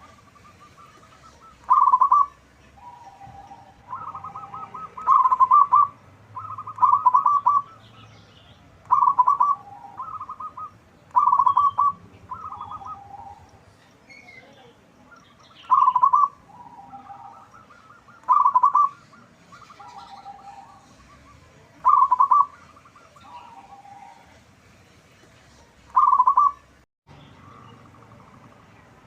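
Zebra doves (perkutut) cooing: loud rolling coos of rapid stuttering notes, repeated every two to four seconds, with fainter coos in between.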